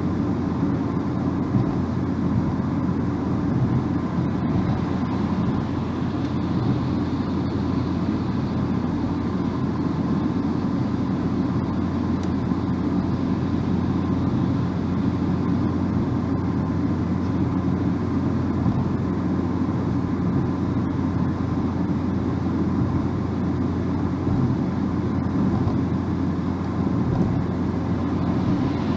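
Car driving at a steady speed, heard from inside the cabin: a steady low drone of tyre and road noise with engine hum.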